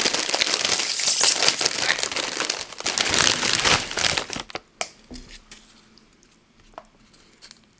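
Tortilla chip bag crinkling as it is handled and reached into, for about four and a half seconds, then a few faint clicks.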